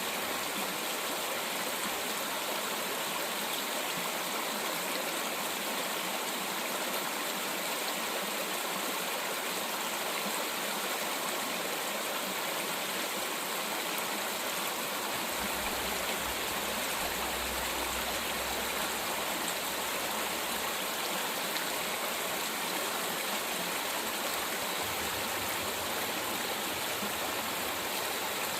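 Mountain stream flowing with a steady, even rush of water.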